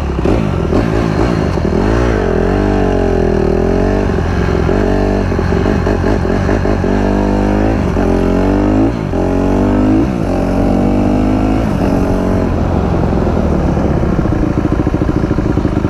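Dirt bike engine revving and accelerating, its pitch climbing and dropping again and again as the throttle is worked and it shifts up through the gears.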